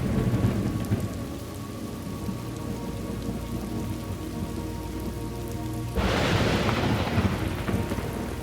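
Thunderstorm ambience: steady rain with a low rumble of thunder, and a sudden sharp thunderclap about six seconds in that fades over the next two seconds.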